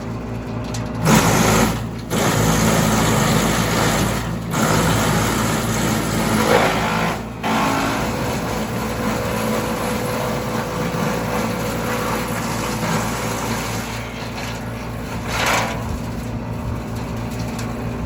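Tractor-driven ARPAL wood chipper running steadily, with loud bursts of crunching noise as branches are fed in and chipped: a run of them in the first seven seconds, several cutting off abruptly, and another around fifteen seconds in.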